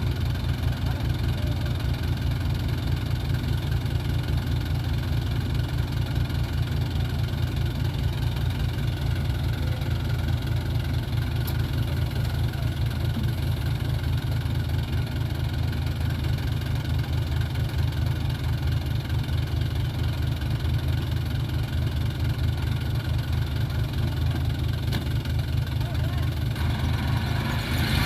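Toyota Dyna 130HT dump truck's diesel engine idling steadily with a rapid, even low throb.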